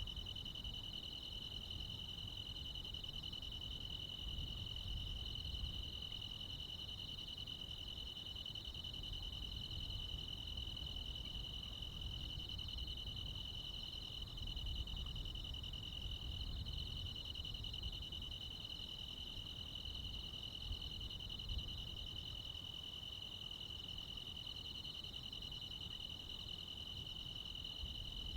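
Crickets and other insects chirring continuously at night, a steady high trill with no pauses, over a low background rumble.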